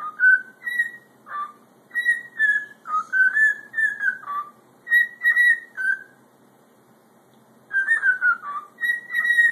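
Pet parrot beatboxing: a quick string of short whistled notes with a few clicks, in two runs separated by a pause of about a second and a half.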